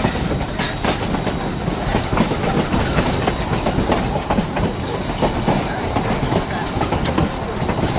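Narrow-gauge railroad passenger car rolling along, heard from aboard: a steady rumble of wheels on rail with frequent irregular clicks and knocks.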